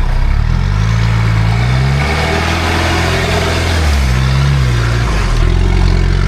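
Old Jeep Cherokee's engine revving up and dropping back several times as it is driven on an off-road course.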